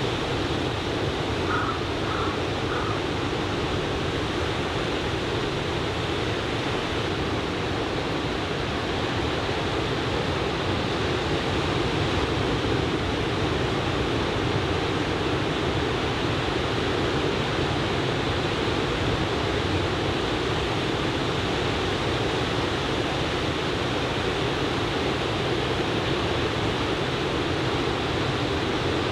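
Ocean surf breaking on a sandy beach: a steady, unbroken rushing wash with no single wave crash standing out.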